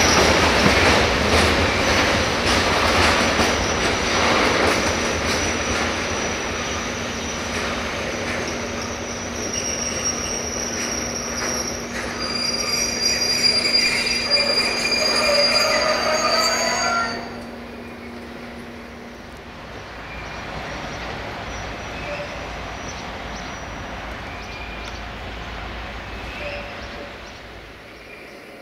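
Tank wagons of a freight train rolling slowly past on the rails, with rattling and high-pitched brake and wheel squeal as the train brakes on arrival. The noise cuts off sharply about two thirds of the way through as the train comes to a stand, leaving a faint low rumble.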